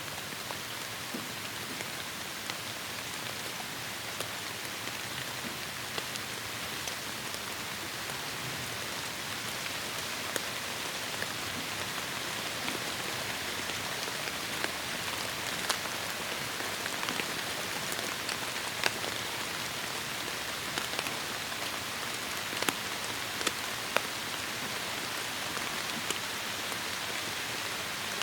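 Heavy rain falling steadily in a tropical forest, a dense hiss with individual drops ticking sharply here and there, more often in the second half.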